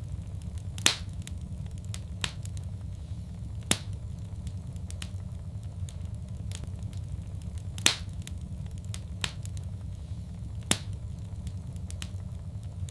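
Wood fire in a fireplace crackling: a steady low rumble with scattered sharp pops, the loudest about a second in, near eight seconds and near eleven seconds.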